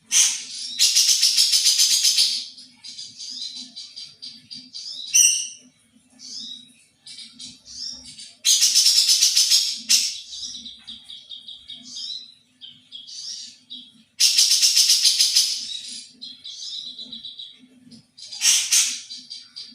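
A songbird singing loud, rapid, rattling trill phrases four times, separated by shorter chirps and whistles.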